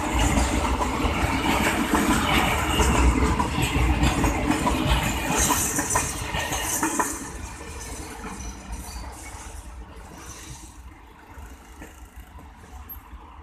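Container flatcars of a freight train rolling past on the rails, their wheels clattering and clinking over the track. The noise drops off about seven seconds in as the last wagons go by, and the train fades into the distance.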